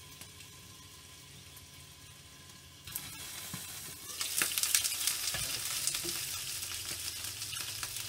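Gyoza pan-frying in oil and a little water, a soft, muffled sizzle under a glass lid. About three seconds in the lid is lifted off, and the sizzle turns loud and crackling.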